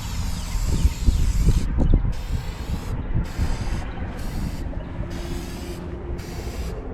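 Aerosol spray-paint can hissing in about six short bursts with brief pauses between, as graffiti is sprayed onto a wall.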